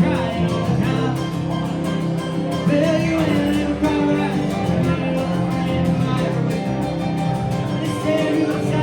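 A band playing an upbeat rock and roll medley: guitar over a steady beat, with singing.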